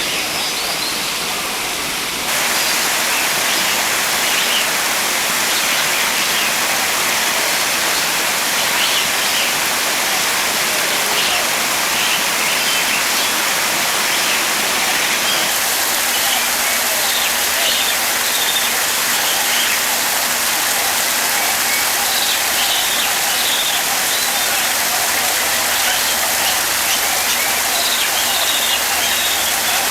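Steady hiss of falling water, with short faint high sounds scattered through it.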